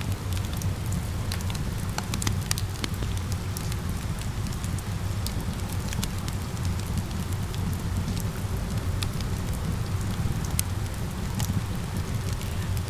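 Steady rain mixed with a crackling wood fire: a constant low rush of rain, with many sharp, irregular crackles and pops from the burning wood.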